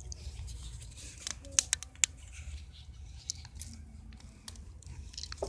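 Wood campfire crackling, with scattered sharp pops over a steady low rumble; the loudest pop comes about a second and a half in.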